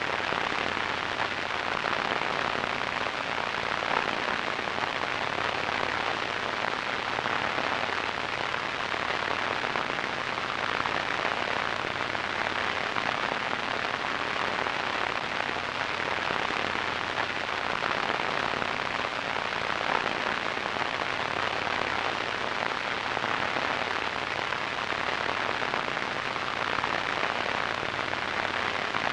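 Radio static: a steady, even hiss, strongest in the middle and upper range, with no tones or breaks.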